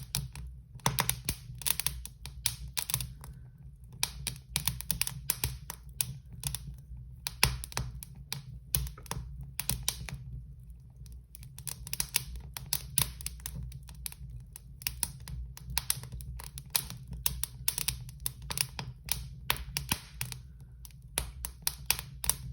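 Wood fire crackling: irregular sharp snaps and pops in quick clusters with brief lulls, over a steady low rumble.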